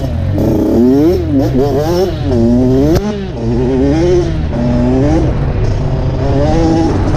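Dirt bike engine riding a trail, its pitch rising and falling over and over as the throttle is worked, with a sharp knock about three seconds in.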